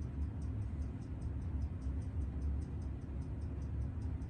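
Light, even ticking, about five ticks a second, over a steady low hum.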